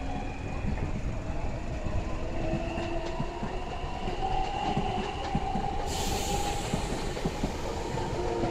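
Electric Tilt Train pulling out and passing close by: a steady rumble of wheels on rail with many quick clicks, and a faint whine that rises slowly in pitch as it picks up speed. A hiss comes in suddenly about six seconds in.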